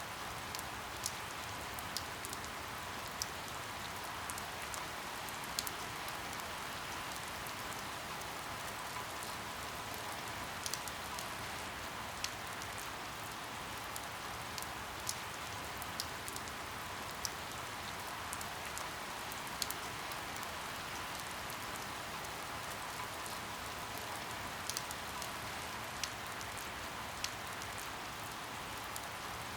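Steady rain falling, an even hiss with sharper drops ticking now and then.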